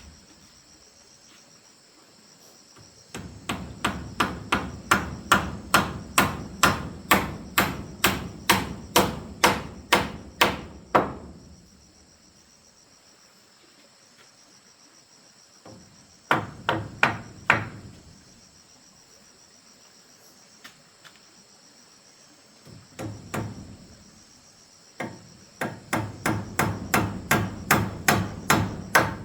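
Hammer driving nails into wood in runs of steady blows, about three a second, with pauses between runs. A steady high insect drone runs underneath.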